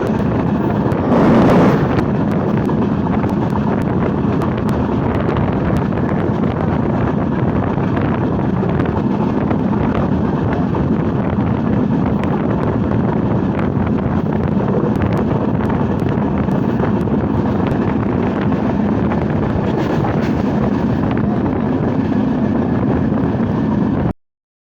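Steady rumble and rushing air of a moving passenger train, with wind buffeting the microphone and a louder rush about a second in. Faint repeated clicks run through it, and the sound cuts off suddenly near the end.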